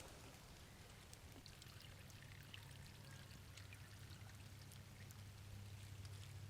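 Near silence: a faint trickle of a shallow stream, with scattered tiny ticks over a faint steady low hum.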